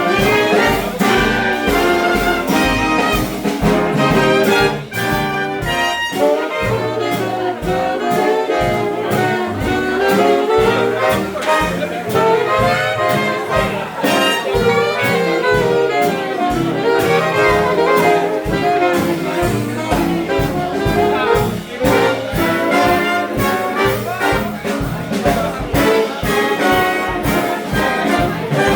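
Swing big band playing an instrumental passage with no vocals: its horn section of trumpets, trombones and saxophones over a steady beat.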